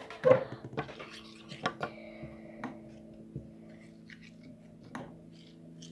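A utensil clinking and scraping against a container while slime glue with glitter is stirred: a louder knock near the start, then scattered light taps and clicks.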